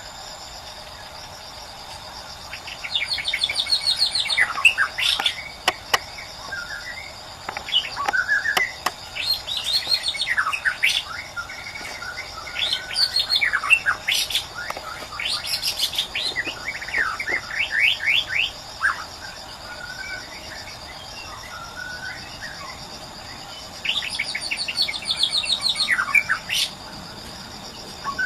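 White-rumped shama singing its natural song, without imitations of other birds, in several bursts of quick, varied whistles and trills separated by pauses. A steady high insect trilling runs underneath.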